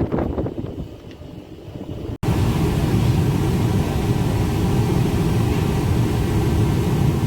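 Steady low rumble of a passenger ship's engines that starts abruptly about two seconds in. Before it comes a fainter, fading wash of wind and sea noise.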